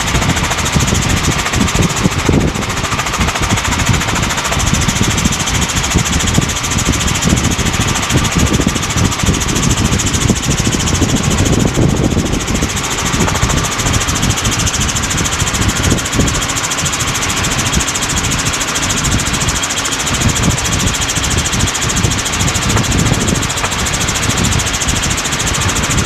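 Helicopter engine and rotor noise heard from inside the cabin in flight: a loud, steady drone with a fast low flutter.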